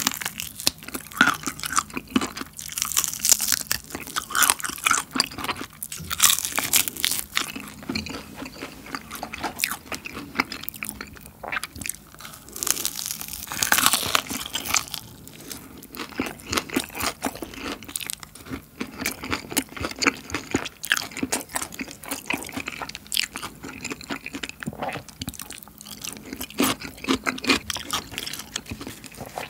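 Close-miked crunching and chewing of crispy coated fried chicken wings, bitten and chewed in quick, irregular runs of crisp crackles.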